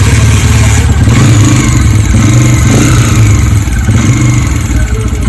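Motorcycle pushrod engine running with a steady tappet clatter. The mechanic traces the noise to excessive play in a tappet and a worn push rod end.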